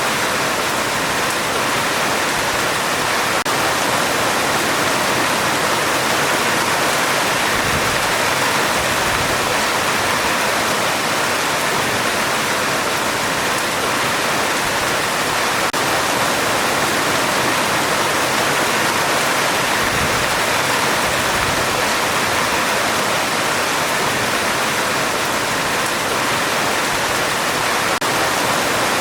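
Heavy rain falling steadily on a metal roof: a dense, even hiss with no let-up.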